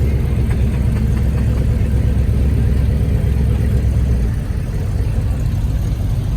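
Car engine running close by, a steady low rumble that eases a little about four seconds in.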